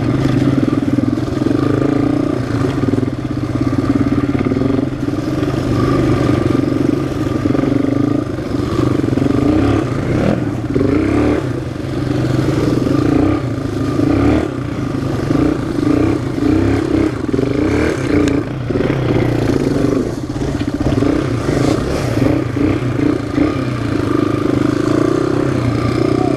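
Single-cylinder four-stroke off-road engine running steadily under light throttle changes, with scattered clatter and knocks from the machine riding over rough trail.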